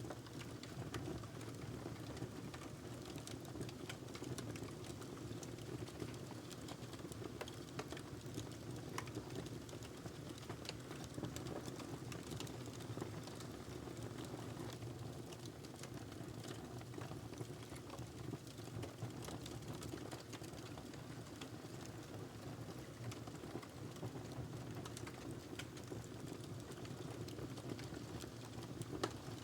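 Wood fire crackling in a fireplace: a steady low rush of burning with many small, irregular snaps and pops.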